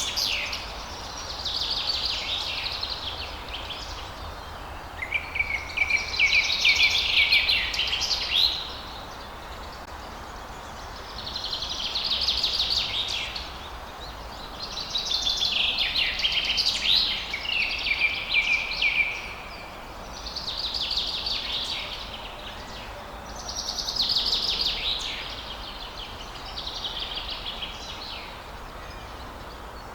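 Songbird singing at dawn: phrases of rapid notes, each about two seconds long, repeated every three to four seconds.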